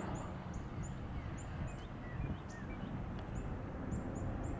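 Small birds chirping, many short high-pitched notes in quick succession with a few lower sliding notes, over a steady low rumble.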